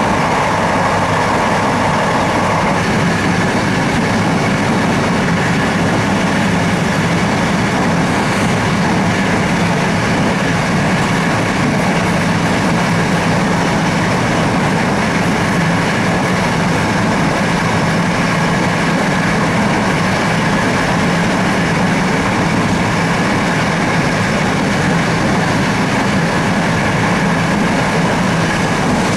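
TLK passenger train running at speed, a steady rumble of wheels on rails heard from inside the train through the glass, with a whine that fades away in the first couple of seconds.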